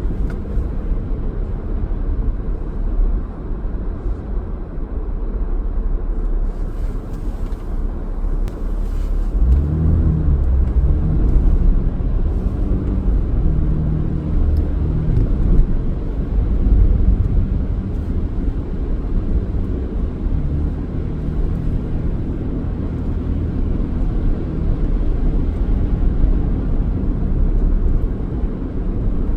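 A car driving, with a steady low road and engine rumble. About a third of the way in, a deeper engine hum with a pitch joins and carries on.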